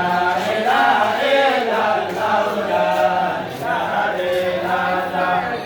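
Voices chanting together in a religious praise chant, over a faint steady low hum.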